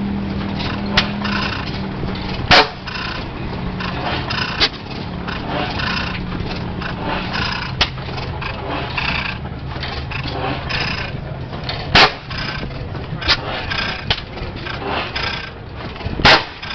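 A 40 hp Witte hit-and-miss gas engine firing a single loud exhaust bang three times, widely spaced, and coasting on its flywheels in between with light clicks. Voices murmur in the background.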